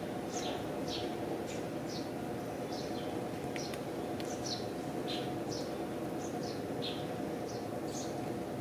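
Small birds chirping: short, falling chirps repeating about once or twice a second, over a steady low background hum.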